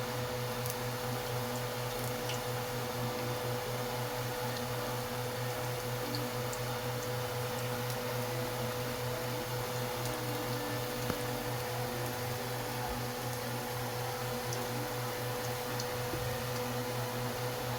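Steady hum of a running kitchen appliance, with a few faint ticks scattered through it.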